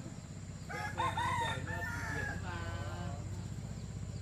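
A rooster crowing once, a single multi-part crow of a bit over two seconds starting just under a second in, over a steady low rumble.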